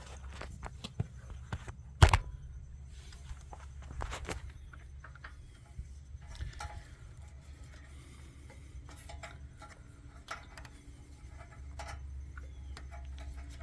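Hands fitting carburetor parts and gaskets back onto a small snowblower engine: scattered light clicks and taps, with one sharp knock about two seconds in, over a low steady hum.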